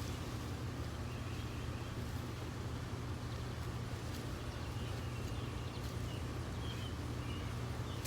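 Steady low background hum, like a motor or air-conditioning unit running, with a few faint high chirps.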